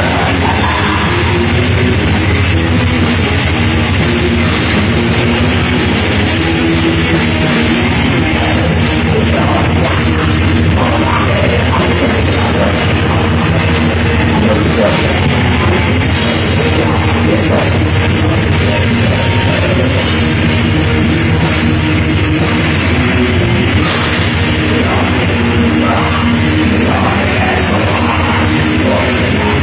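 Heavy metal band playing live, with distorted guitars and a drum kit at full volume, steady and dense throughout.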